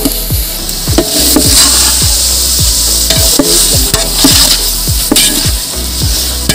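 Country chicken pieces frying in onion-tomato masala in a large aluminium pot, sizzling steadily while a metal ladle stirs them. A string of short falling tones, about two a second, runs under the sizzle.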